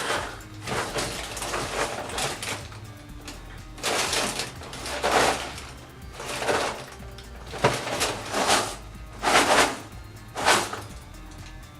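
Dry cereal flakes rustling in repeated bursts as they are shaken and stirred around.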